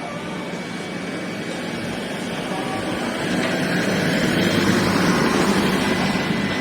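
A motor vehicle passing close by, its engine and road noise swelling to a peak about five seconds in and then easing off.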